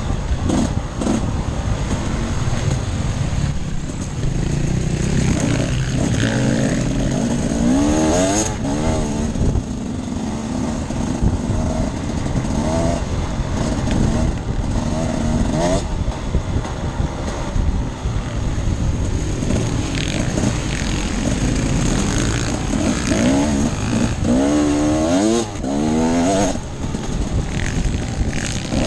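Enduro motorcycle engine being ridden hard, its pitch climbing and dropping again and again as the throttle is opened and closed.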